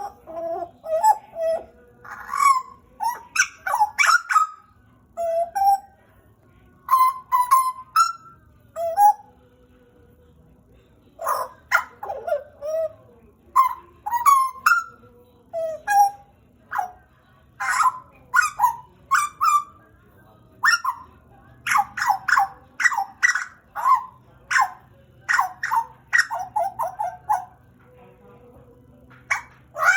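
Butcherbird singing: a series of loud, short whistled and chattering notes in phrases, broken by pauses of a second or two, with a quicker run of notes about two-thirds of the way through.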